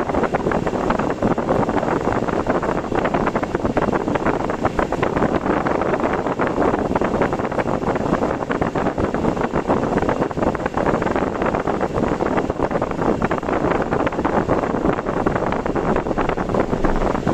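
Steady, dense rushing noise of typhoon wind and rain around a moving car, with the car's road noise underneath.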